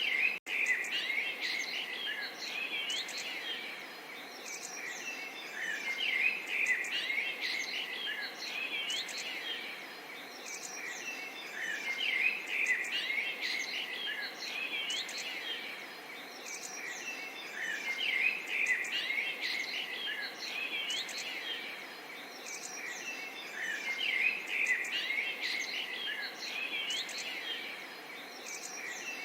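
Many small birds chirping and singing over a faint steady background hiss, the chorus swelling and easing about every six seconds. The sound drops out for a moment about half a second in.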